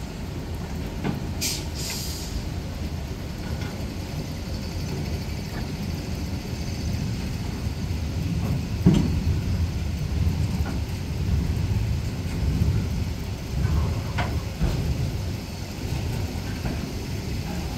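Freight train rolling past in heavy rain: a steady low rumble of wheels on rail with irregular clanks and knocks, the sharpest about nine seconds in, and a couple of brief hissing bursts near the start.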